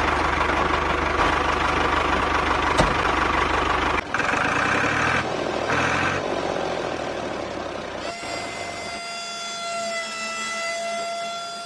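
Small electric motors of a homemade model tractor and mini threshing machine running with a steady whirring rattle. The sound changes abruptly at about four seconds and again at about eight, ending in a steady high whine that slowly fades.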